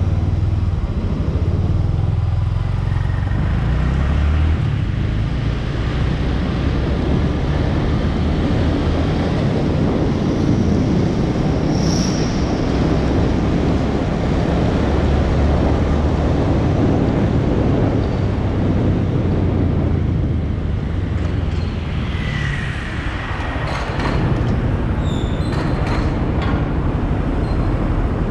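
Honda MSX 125's single-cylinder engine running under way, its pitch rising and falling with the throttle, over steady road noise. A few sharp clicks come near the end.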